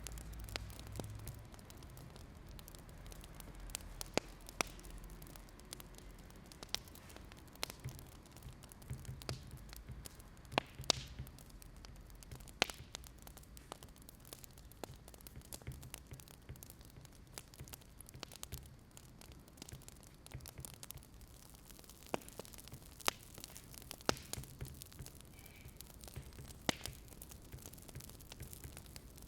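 Wood fire crackling: scattered, irregular sharp pops over a low steady hum.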